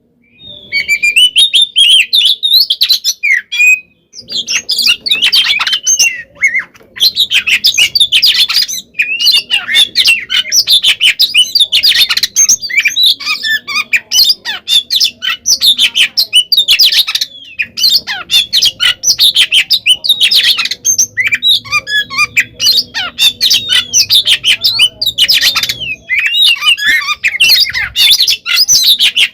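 Oriental magpie-robin (kacer) singing loudly in a fast, almost unbroken stream of gliding whistles, chatters and harsh squawky notes, with brief pauses just after the start and around four seconds in. This is the agitated "fighting" song (kacer tarung/ngeplong) that keepers play to provoke other magpie-robins into answering.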